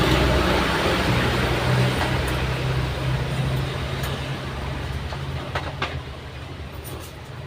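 Washing machine motor and drum running with a steady low hum and whirring noise that gradually dies away, with a few light clicks near the end.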